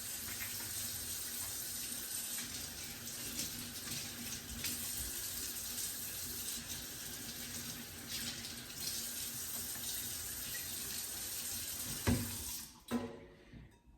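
Kitchen tap running steadily into a sink as raw chicken is rinsed under it. About twelve seconds in there is a sharp knock, and the water then stops.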